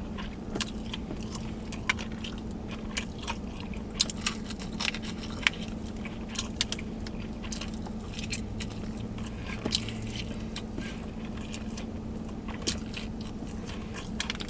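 A person chewing and biting food close to the microphone, with irregular wet clicks and small crunches, over a steady low hum.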